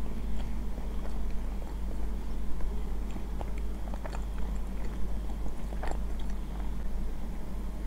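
Close-up chewing of instant ramen noodles, with a few light clicks of a spoon and fork against the plate.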